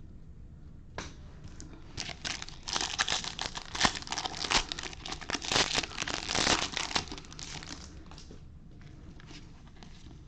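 Foil wrapper of a Bowman baseball card pack being torn open and crinkled, a dense stretch of crackling from about two seconds in until about seven and a half seconds, with a single click just before it.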